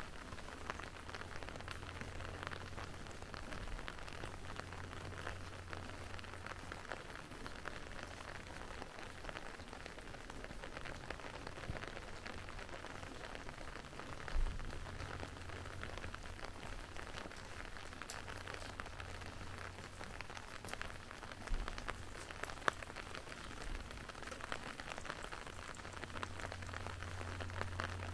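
Steady rain falling, a constant hiss made of many fine drop ticks. Under it runs a low hum that is strongest near the end, and a few single knocks come about halfway through and again later.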